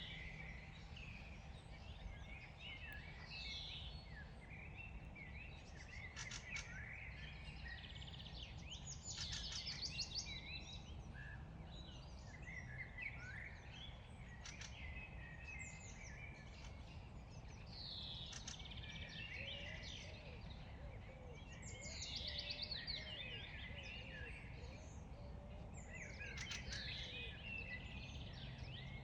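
Several songbirds singing and calling together, short chirps and sweeping notes with fast trills now and then, over a steady low background rumble.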